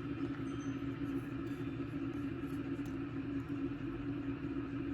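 Steady low mechanical hum, unchanging throughout, with a few faint light clicks.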